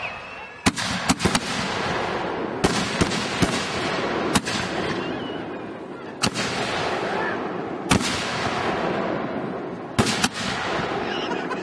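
A chain of fused 60-gram consumer firework mortar shells going off: about a dozen sharp bangs at uneven intervals, some in quick pairs or threes, over a steady hiss of burning between them.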